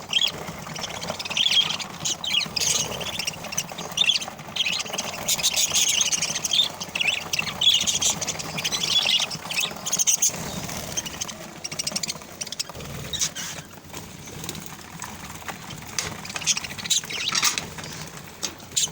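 A flock of parrots calling, many short high calls overlapping, busiest in the first half and again near the end.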